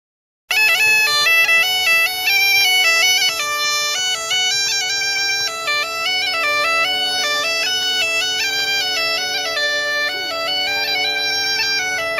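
Bagpipe tune: a quick stepping melody over steady drones, starting suddenly and cutting off abruptly at the end.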